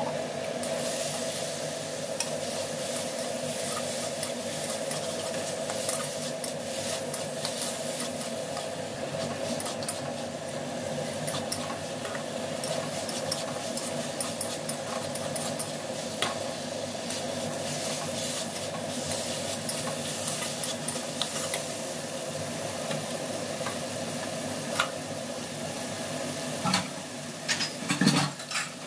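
Chicken pieces sizzling as they fry in oil and masala in a kadai, with a steel spatula scraping and clinking against the pan as they are stirred. A few louder clanks of the spatula come near the end.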